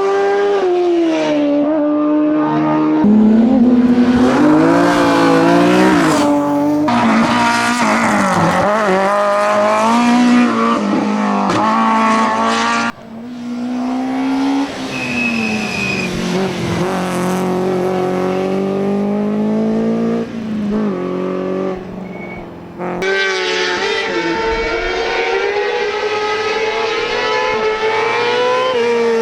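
Hill-climb competition cars at full throttle, their engines revving up and dropping back through gear changes. Several cars are heard one after another, with abrupt cuts between them.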